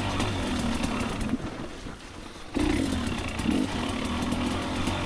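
Two-stroke dirt bike engine running at a steady low pitch. It drops away about a second and a half in and comes back abruptly about a second later.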